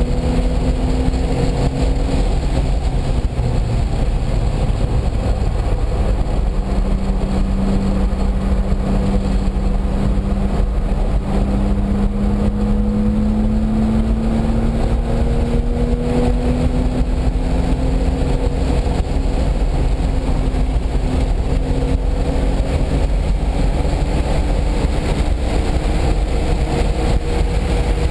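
Car engine running hard at speed, its pitch slowly dropping and climbing as it accelerates and lifts, over a heavy low rumble of road and wind noise.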